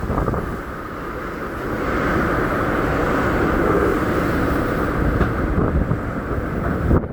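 Hurricane wind gusting, a dense low rush buffeting the microphone. It eases about a second in, builds again, and drops off abruptly near the end.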